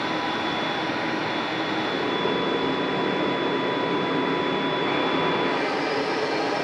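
AH-64 Apache helicopter's turbine engines running, a steady roar with a thin high whine, growing a little fuller about two seconds in.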